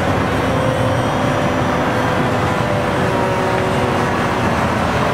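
Control line model airplane's small engine running steadily in flight, its pitch drifting slowly up and down as the plane circles.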